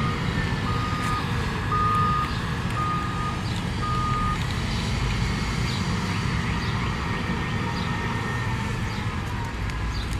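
Heavy-equipment reversing alarm beeping four times, about once a second, then stopping about four seconds in, over a diesel engine running steadily.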